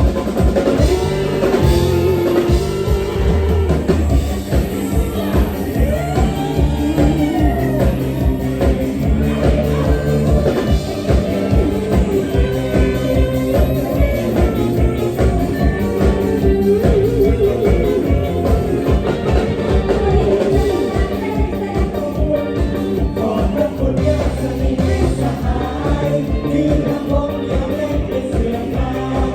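A live Isan mor lam band playing an upbeat toei song, with a steady drum-kit beat under a singing voice.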